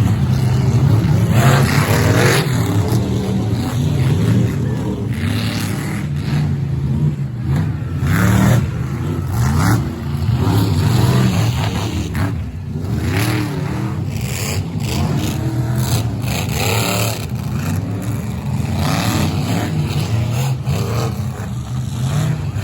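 Monster truck engine running loud and deep, its pitch rising and falling as it is revved.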